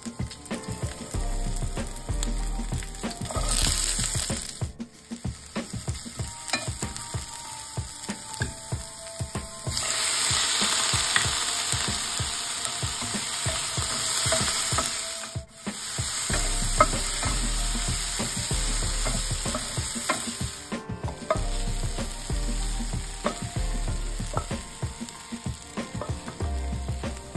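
Onion, tomato, garlic and ginger sizzling as they fry in oil in a nonstick frying pan. A wooden spatula stirs them, with small scrapes and taps against the pan. The sizzle is loudest about halfway through and drops out briefly a few times.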